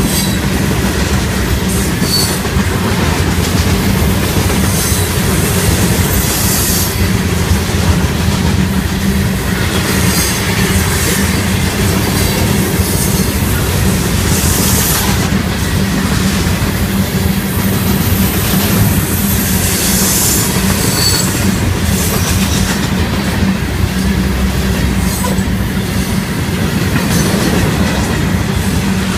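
Freight train cars, open-top hoppers, rolling past close by: a steady rumble of steel wheels on the rails with clickety-clack over the joints, and a few brief high squeals from the wheels.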